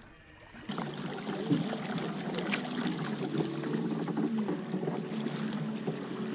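Water splashing and rushing around a kayak under way, starting up after a brief quiet moment less than a second in.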